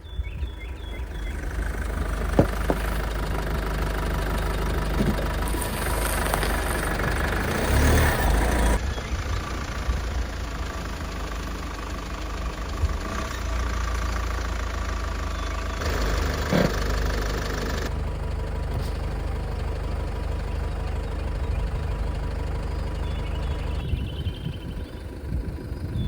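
A vehicle running, a steady low engine and road rumble, with a few small knocks; the sound changes abruptly several times as the shots cut.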